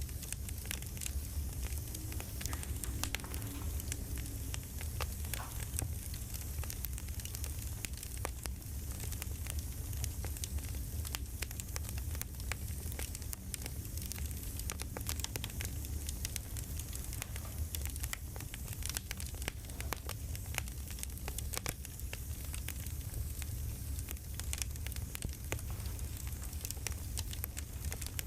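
Campfire crackling: a constant low rumble of the fire with many small, irregular pops and snaps of burning wood.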